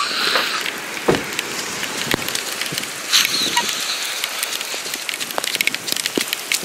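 Heavy rain falling, with raindrops striking the camera microphone as many sharp ticks. A woman screams at the start and again about three seconds in.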